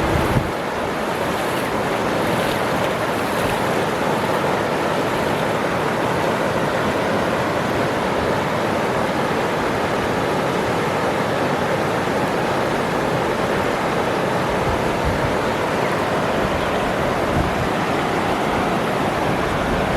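Waterfall: a steady rush of falling water, constant in level.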